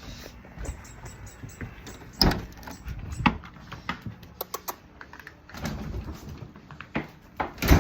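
Irregular clicks and knocks with faint rustling, the loudest about two seconds in and again near the end.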